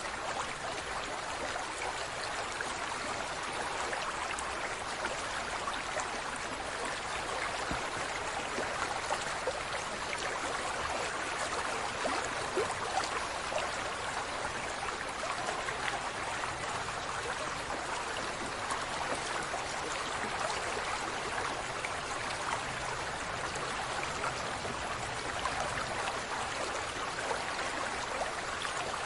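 Steady running water with a fine, even splashing texture that does not change in level.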